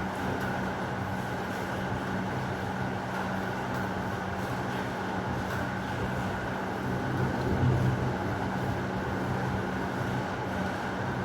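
Steady heavy rain with a constant low rumble underneath, swelling briefly about three-quarters of the way through.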